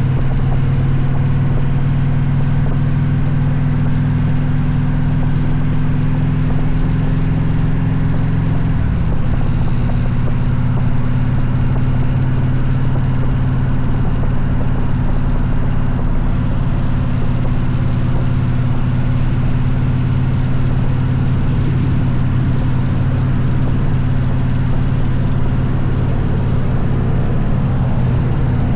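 V-twin motorcycle engine running steadily at a constant speed, with a slight change in pitch about nine seconds in.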